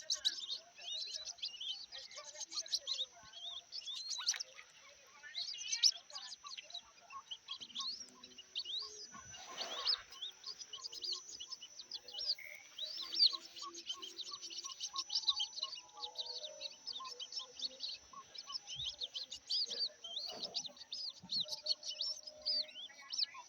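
Newly hatched white-breasted waterhen chicks cheeping nonstop: a rapid stream of short, high, falling peeps. A faint steady high tone runs underneath, and there is a brief rustle about ten seconds in.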